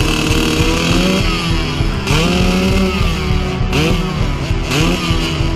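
Motocross dirt bike engine running, with about three quick throttle blips whose pitch rises sharply and falls back.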